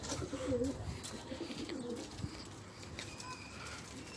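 Domestic pigeons cooing, several low warbling coos one after another.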